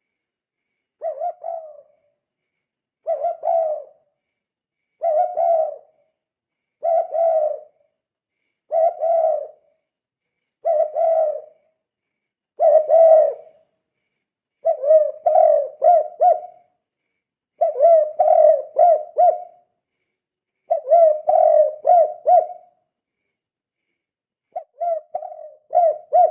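Spotted dove (tekukur) cooing, one low phrase about every two seconds. From about halfway on, each phrase breaks into three or four quick notes.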